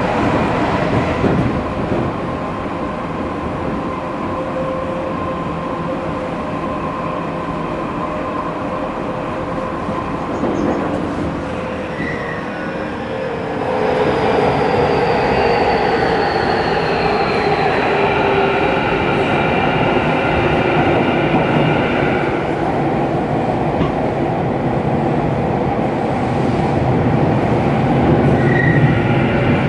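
Running sound inside a Tokyu 5000 series EMU motor car: the IGBT inverter and traction motor whine over wheel and rail noise, with the whine's tones sliding down in pitch from about halfway through as the train slows.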